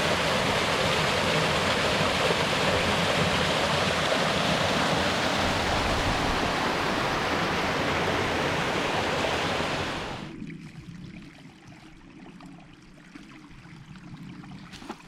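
Waterfall rushing steadily through a cut in the rocks, a loud even rush of water. About ten seconds in it drops away abruptly to a much quieter background.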